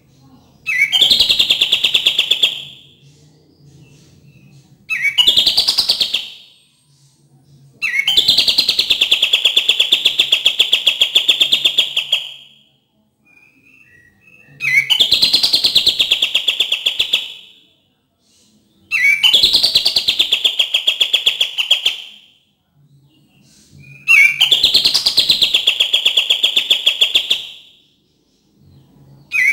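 Kapas tembak (a bulbul) song played as a lure recording: six fast, rattling trilled phrases, each opening with a sharp rising note and lasting about two to four seconds, with short gaps between them.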